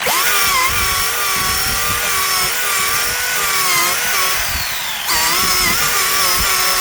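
Losi ProMoto electric RC dirt bike's motor whining under throttle with the rear tire spinning, its pitch wavering. It starts abruptly, sags a little, then surges again about five seconds in.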